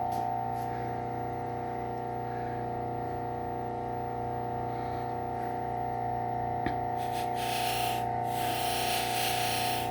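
Bucktool low-speed belt sander's motor running with a steady hum. Near the end come two stretches of hissing as steel is touched to the spinning buffing wheel to clean off the burr, with a single click shortly before them.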